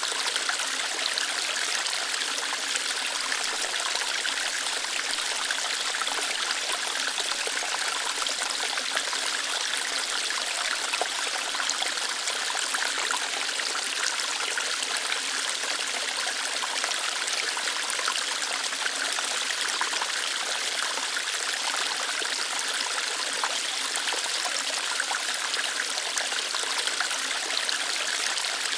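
Small waterfall flowing lightly over rocks: a steady, even rush of water with fine splashing and trickling, mostly high in pitch with little low rumble.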